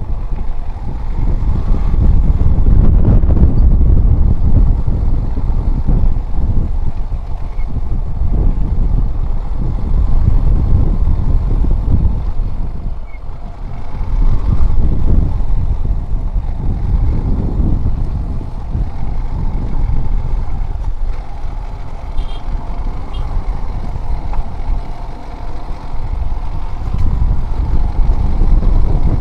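A motorcycle being ridden: engine and road noise over a heavy low rumble that swells and fades every few seconds.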